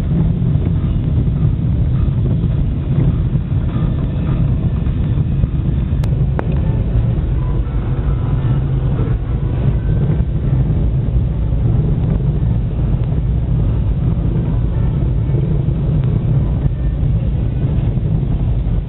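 Car driving on a snowy road, heard from inside the cabin: a steady low rumble of engine and tyre noise, with a faint click about six seconds in.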